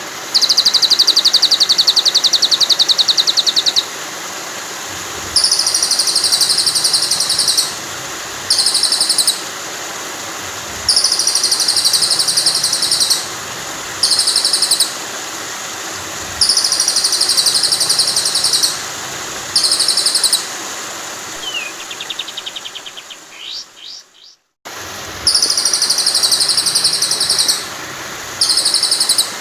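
Looped birdsong over steady running water: a very fast, high-pitched trill repeats in regular bursts of one to two seconds, a filler song for training white-rumped shamas. The water hiss continues under the trills. About two-thirds of the way through, everything fades and cuts out for a moment at a loop seam, then the trill pattern starts again.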